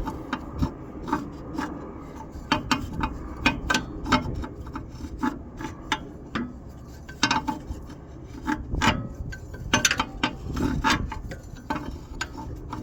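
A wrench backing out a bolt: irregular sharp metal clicks, about two or three a second, over scraping and rubbing.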